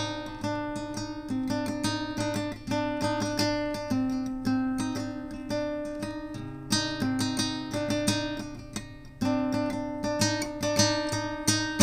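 Acoustic guitar strumming chords, with ringing sustained notes and a steady strum rhythm.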